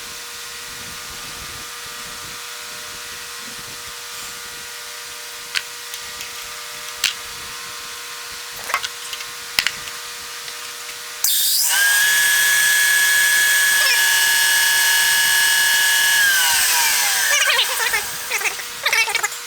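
An electric drill's motor starts about eleven seconds in and runs at a steady high whine for about five seconds, then winds down with falling pitch, followed by clattering. Before it, a faint steady hum with a few sharp clicks.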